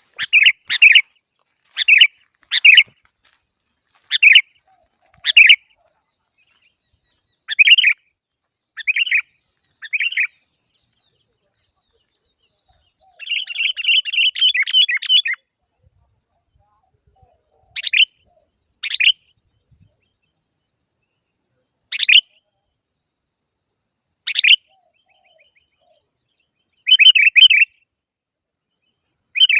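Sooty-headed bulbul calling: short, bubbly phrases repeated every second or two, with a longer run of rapid chattering about halfway through and a brief one near the end. These are vigorous rival-calling phrases.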